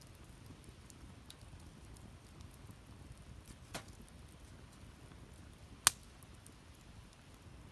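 Firewood burning in a fire stand, crackling faintly with scattered small ticks, a small snap about four seconds in and one sharp, loud pop about six seconds in.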